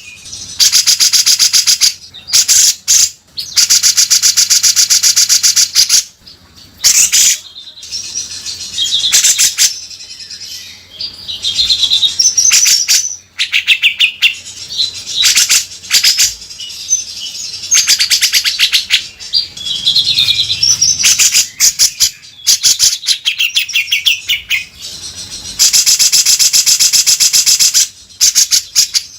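Grey-cheeked bulbul (cucak jenggot) singing: long runs of harsh, very fast rattling chatter, the 'beset kasar' style, lasting a few seconds each, broken by short whistled phrases.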